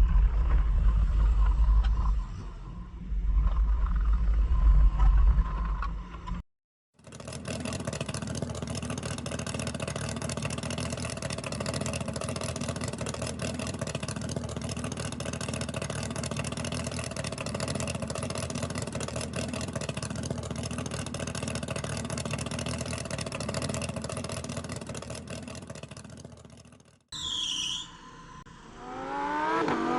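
Forklift engine running in several edited pieces: a loud low rumble first, then a long steady run at constant speed, and near the end the engine revving up with rising pitch.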